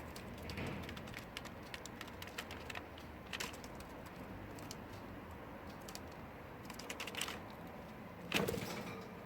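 Budgerigar preening: small irregular clicks of the beak nibbling through feathers, with brief feather rustles, the loudest about eight seconds in.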